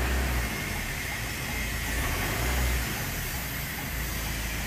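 Maruti Suzuki Swift's diesel engine running just after a diesel filter change, heard inside the cabin. It idles steadily, and the revs lift briefly at the start and again about two and a half seconds in.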